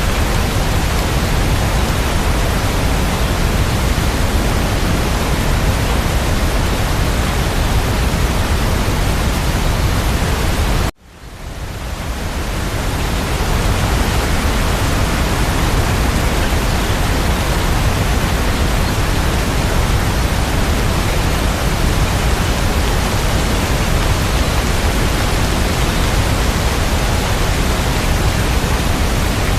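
Steady, dense rain hiss with no individual drops standing out. About eleven seconds in it cuts out abruptly and fades back up over a couple of seconds.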